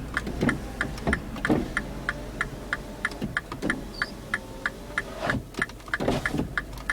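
Steady, even ticking at about three ticks a second, the rhythm of a car's turn-signal ticker, over the low hum of the idling engine.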